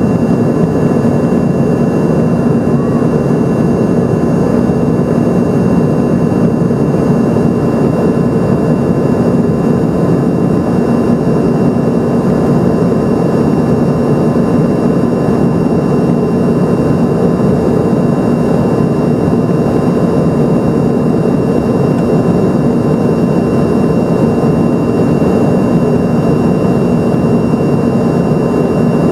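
Embraer ERJ-145's rear-mounted Rolls-Royce AE3007 turbofans heard from inside the cabin: a steady jet rumble with a few steady whining tones, unchanging throughout, as the airliner climbs out after takeoff.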